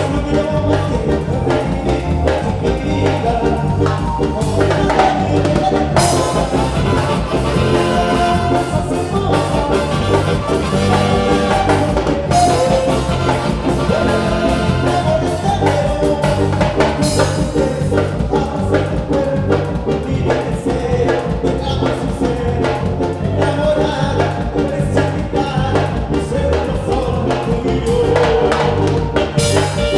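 Latin dance band playing a song, with a vocalist singing over a drum kit and a steady beat.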